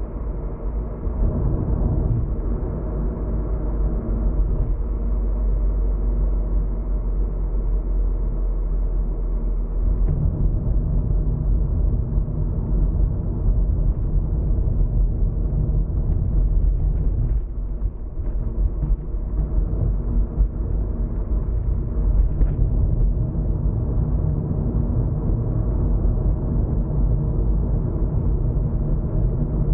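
Car driving on a road, heard from inside the cabin: a steady low rumble of engine and tyre noise. The rumble steps up about a second in and again about ten seconds in.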